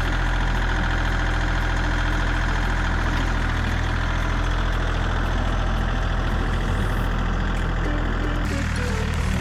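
John Deere 3320 compact tractor's engine running steadily. The sound changes abruptly about eight and a half seconds in.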